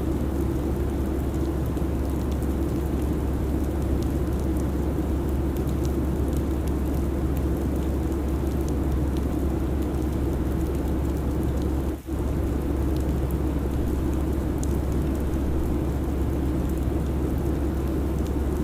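Steady airliner cabin noise at cruise: an even rushing drone with a strong low rumble. It drops out briefly about twelve seconds in.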